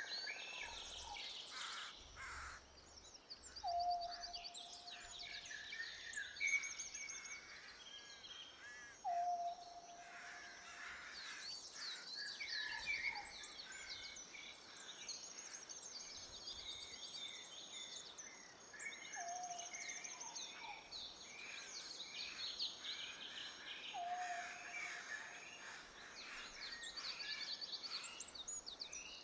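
Several birds singing together, with fast high trills and chirps overlapping, and one low whistled note repeated every few seconds.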